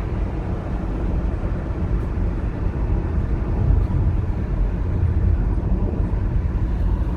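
Steady road noise inside a moving car: a low rumble of tyres and engine while driving.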